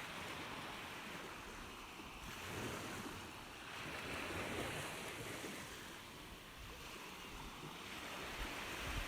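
Ocean surf: a steady rush of waves that swells and eases a few times as they wash in.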